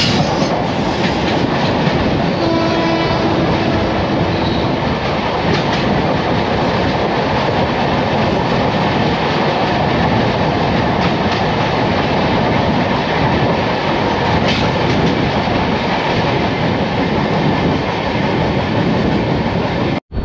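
Loud, steady rush of train wheels and wind through an open coach door as another train's coaches run close alongside on the next track. A train horn sounds for about two seconds a couple of seconds in.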